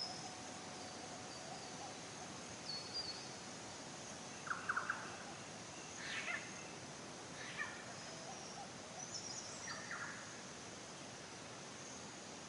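Outdoor nature ambience: a steady hiss with a faint, high, steady insect trill, and scattered short bird calls. The loudest is a quick run of about four notes around four and a half seconds in.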